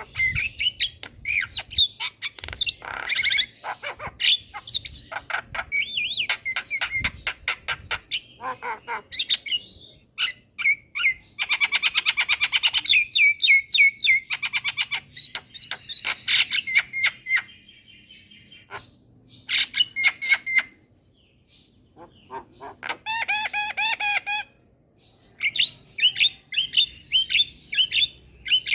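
Javan myna (jalak kebo) singing vigorously: fast clicks, rattling chatter and harsh squawky calls in bursts, broken by a few short pauses in the second half.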